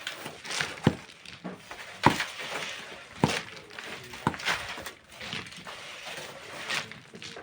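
Manual mining work with hand tools: four sharp strikes about a second apart, among softer scraping and rustling sounds.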